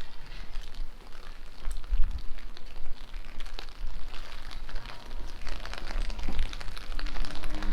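Rain falling outdoors: a steady patter with many small drop clicks over low, uneven rumbling thumps. Music starts faintly near the end.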